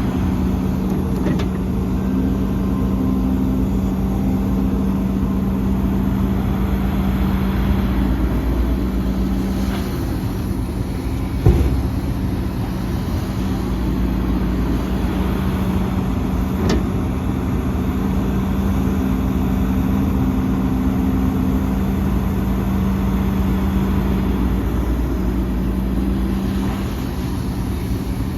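Heavy diesel earthmoving machinery, an excavator and dump trucks, running steadily with a constant engine hum. A single sharp knock comes about eleven seconds in.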